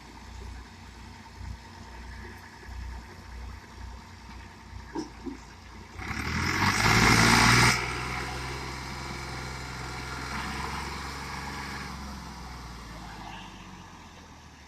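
Massey Ferguson 260 tractor engine running under load. About six seconds in it surges loudly for roughly two seconds, then settles back to a steady run.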